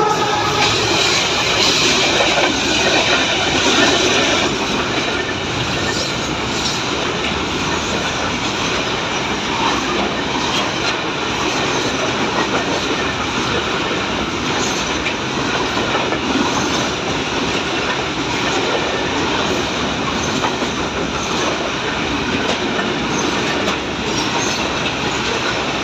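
Pakistan Railways passenger train running on the track: a steady rumble with the clickety-clack of wheels over rail joints, a little louder for the first few seconds.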